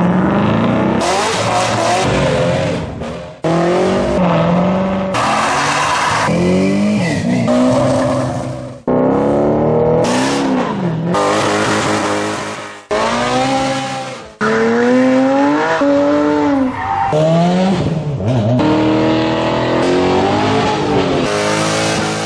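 Car engines revving hard, one after another, the pitch rising and falling with each blip of the throttle. The sound changes abruptly every second or two as one engine gives way to the next.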